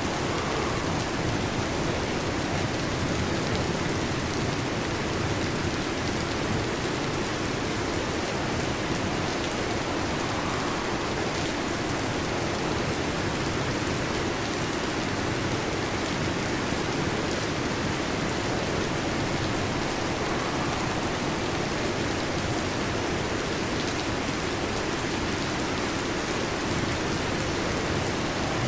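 Heavy rain falling steadily on a metal roof, a dense, even patter with no thunder.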